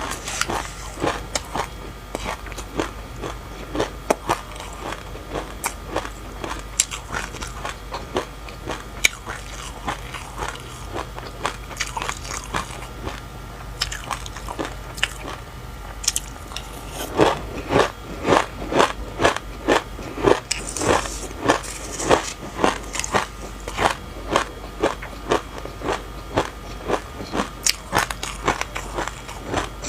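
Close-miked chewing with sharp, crisp crunches of seeds: passion fruit with sesame seeds being eaten. The crunching is irregular at first, then settles about halfway through into a steady chewing rhythm of about two crunches a second.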